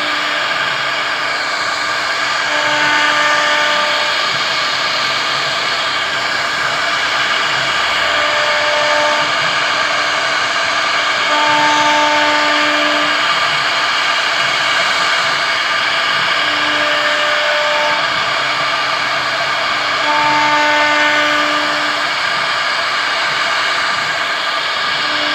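CNC router spindle cutting wood, a steady dense whirring hiss. A humming tone with overtones rises over it and fades again about five times.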